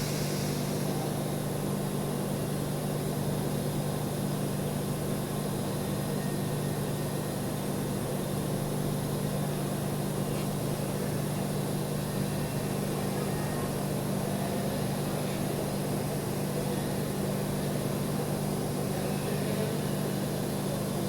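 Steady, unchanging machine hum with a constant low pitch.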